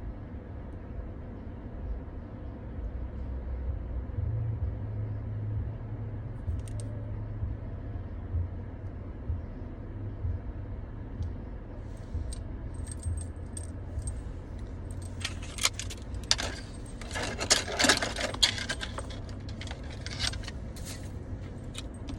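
Small hard objects jingling and clattering in a quick run of clicks, starting sparsely about halfway through and becoming dense and loudest near the end, over a low steady hum.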